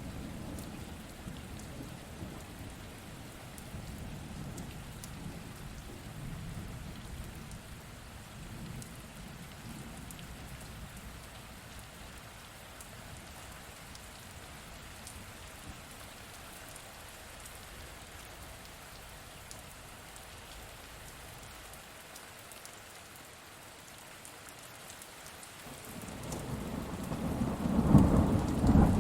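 Steady rain in a thunderstorm with rolling thunder. A low rumble of thunder fades away over the first ten seconds or so, and a louder peal swells up near the end.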